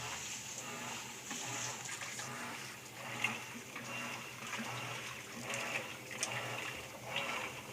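Whirlpool 14 kg digital washing machine washing: water sloshing as the agitator turns back and forth, each stroke carrying a low motor hum, about one stroke a second. The owner finds the wash action too slow and weak, which he takes for an abnormal fault.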